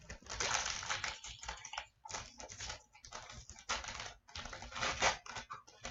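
Trading-card pack being torn open and the cards handled, heard as a series of crinkly paper-and-wrapper rustles with short pauses between them.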